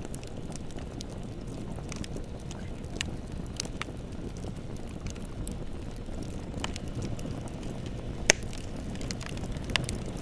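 Bonfire burning: a steady low rush of flame with scattered sharp crackles, and one loud pop near the end.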